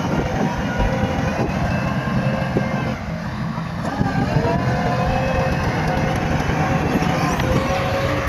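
Bulldozer's diesel engine working under load with a dense, pulsing low rumble; about four seconds in, a pitched whine rises and then holds steady as the engine or hydraulics pick up.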